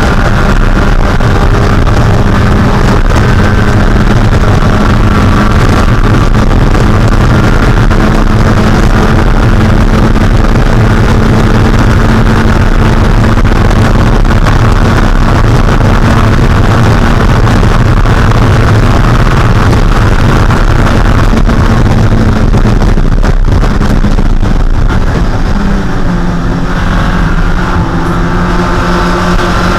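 Spec Miata's 1.6-litre four-cylinder racing engine held at a steady high pitch under full throttle, over a steady rush of noise. About three-quarters of the way through it lets off and the pitch drops, then it climbs again as the car accelerates.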